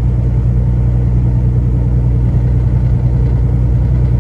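Steady low rumble of a semi-truck's diesel engine and road noise, heard from inside the cab while driving.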